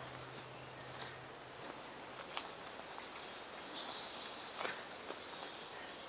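Three short runs of high, thin bird chirps in the second half, over faint footsteps on a woodland path.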